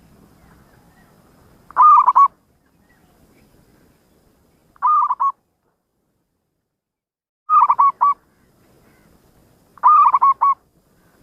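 Zebra dove (perkutut) cooing: four short phrases of quick, rippling coo notes, a few seconds apart.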